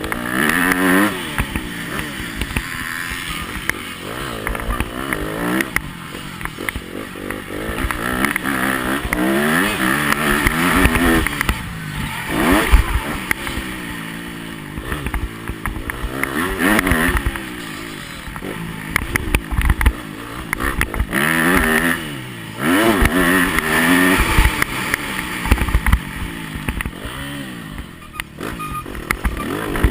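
Yamaha motocross bike's engine revving up and down over and over as the rider accelerates, shifts and backs off around the track, with knocks and rattles from the bumps and gusts of wind noise.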